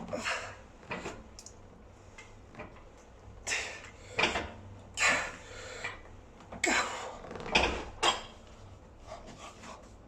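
A pin-loaded weight machine worked through a set of reps: a string of short, irregular knocks and scrapes as the weight stack rises and drops.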